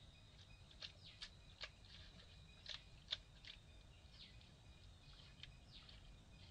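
Near silence with faint bird chirps: short, falling calls scattered irregularly, about one every second, over a faint steady high tone.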